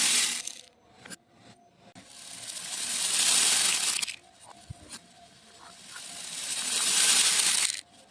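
Small beads poured in a stream, a hissing rattle that swells as the flow builds and stops abruptly: one pour ends just after the start, a second runs from about two to four seconds in, and a third builds from about five seconds and cuts off near the end.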